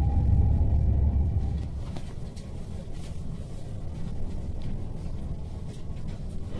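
Cabin noise of a JR East E5 series Shinkansen: a loud low rumble with a steady whine while the train runs. About one and a half seconds in it drops suddenly to a quieter low rumble as the train arrives at its underground terminus platform.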